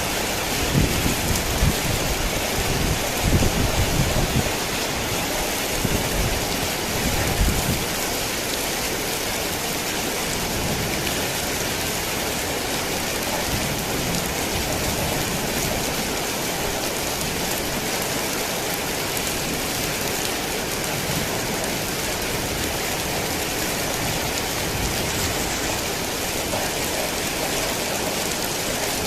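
Heavy rain falling steadily, a dense even hiss. Low rumbles of thunder roll through during the first several seconds and die away about eight seconds in.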